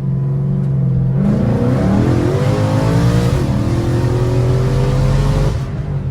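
Supercharged car engine running steadily, then accelerating hard from about a second in, its note rising for about four seconds before it backs off near the end.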